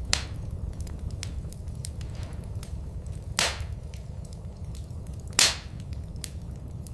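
Wood fire crackling in a fireplace: a steady low rumble with scattered small crackles and two loud pops, about three and a half and five and a half seconds in.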